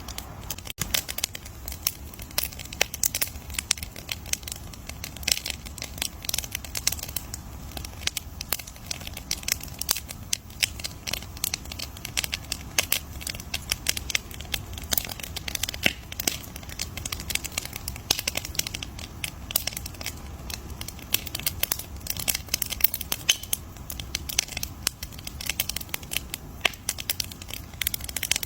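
Wood fire crackling: dense, irregular pops and snaps over a steady low rumble of burning.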